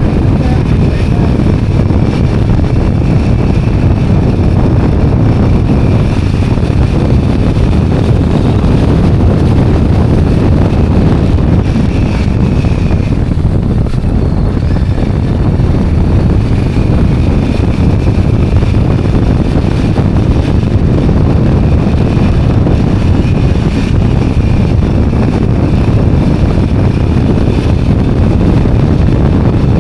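Two-wheeler ridden along a road, its engine running steadily under loud wind rush on the microphone.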